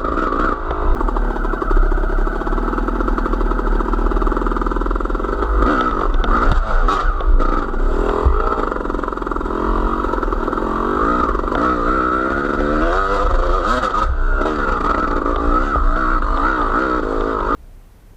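A vehicle engine running under load while riding, its pitch rising and falling again and again as the throttle and speed change. The sound cuts off suddenly near the end.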